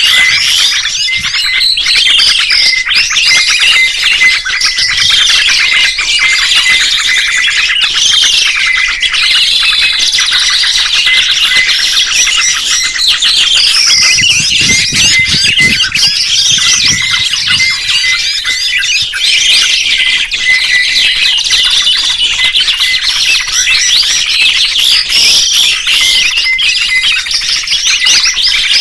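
Many songbirds singing and chirping at once: a dense, loud chorus of overlapping whistles and trills, with a quick repeated high note running through it.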